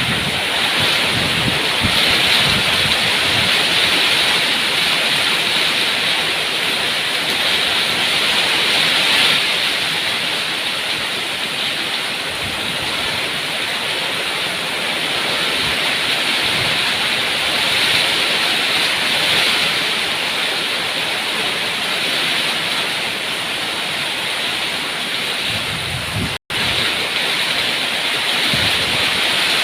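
Steady rain, an even dense hiss with no pauses, except for a split-second cut to silence about 26 seconds in.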